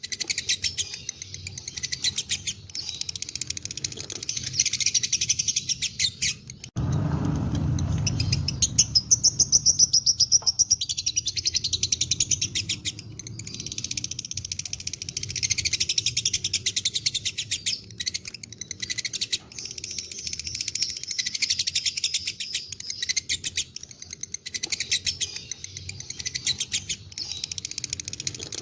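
Lovebirds' 'ngekek': long runs of fast, rapid-fire high-pitched chattering chirps, broken by short pauses. A brief low rumble comes about seven seconds in.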